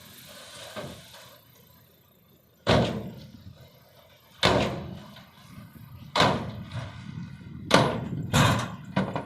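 A series of heavy bangs, about six, each with a short rumbling decay, coming closer together toward the end.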